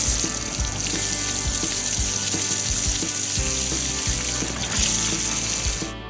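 Steady hiss of water spraying from a fire truck's hose, over background music; the spray cuts off near the end.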